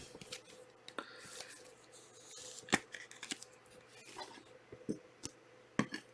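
Trading cards being handled and sorted on a table: scattered light clicks and taps as cards are slid and set down, with short paper-and-plastic rustles in between.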